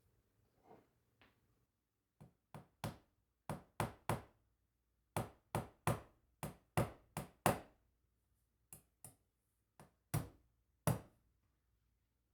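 A series of about eighteen sharp knocks or taps, in uneven clusters of two to four, starting about two seconds in.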